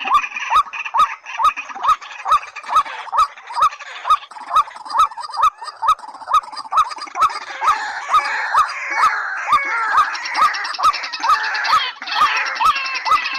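White-breasted waterhen and watercock calls: a fast series of short rising notes, about two and a half a second, over regular sharp clicks, with denser chattering calls joining from about two-thirds of the way through.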